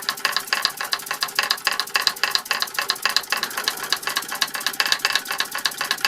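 Rebuilt Martinet model steam hammers, driven by a 1905 Fritz Neumeyer toy steam engine, tapping in a fast even rhythm of about eight light strikes a second.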